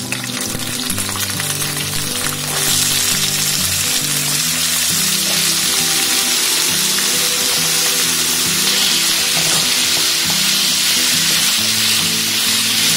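Freshly added raw potato cubes sizzling in hot oil in a pan as they are stirred in; the sizzle swells sharply about two and a half seconds in and then holds steady. Background music plays underneath.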